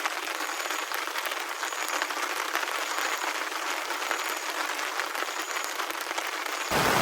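Heavy rain falling steadily, an even hiss. Near the end it turns suddenly louder and fuller.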